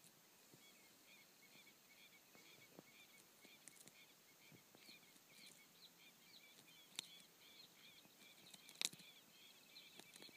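Faint, quick chirps from a bird, repeating about three times a second, with a few sharp clicks, the loudest about nine seconds in.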